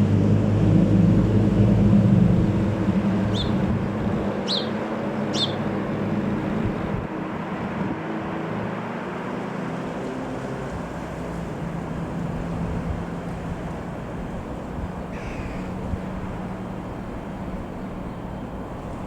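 Piper PA-28-161 Warrior II's four-cylinder Lycoming piston engine and propeller droning as the plane passes, loudest in the first couple of seconds and fading steadily as it flies away. Three short bird calls about three to five seconds in.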